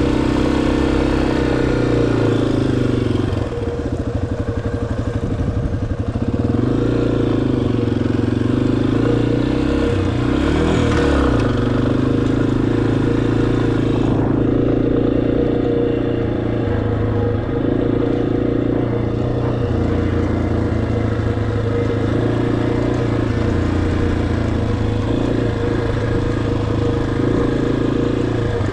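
Motorcycle engine running while riding, its pitch rising and falling as the throttle opens and closes, with a quick rise and fall in pitch about ten seconds in.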